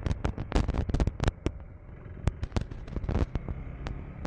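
Dual-sport motorcycle riding over a rough, rocky dirt road: a rapid string of sharp clicks and knocks from stones and bumps hitting the bike, thickest in the first second and a half and then more scattered, over a steady low rumble of engine and wind.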